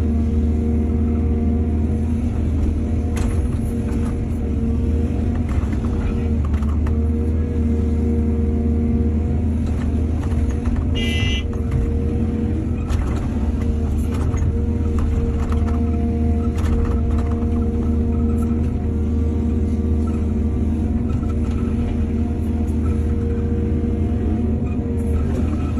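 Excavator's diesel engine running steadily under load, with scattered knocks and clanks from the digging and loading work. There is a brief high squeal about eleven seconds in.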